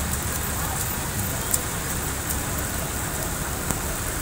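Steady hiss of rain, with a few sharp ticks about a second and a half in and near the end.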